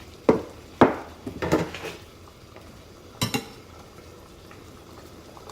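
A spoon knocking and scraping against a pot as curry paste is scooped in: a few clinks in the first two seconds, then one ringing clink about three seconds in.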